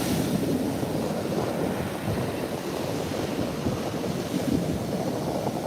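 Wind buffeting the microphone in a choppy, uneven rush, over the steady wash of ocean surf on the beach.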